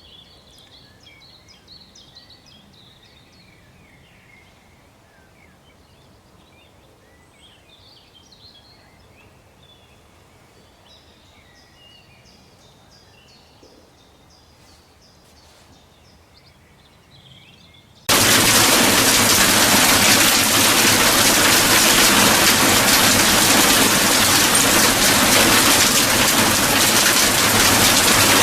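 Birds chirping faintly over a quiet background; then, about two-thirds of the way through, heavy rain cuts in abruptly and holds as a loud, steady hiss.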